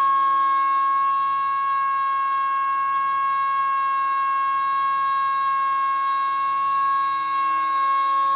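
Stepper motor of a homemade Arduino CNC machine with A4988 drivers, giving a steady, high whine at one unchanging pitch.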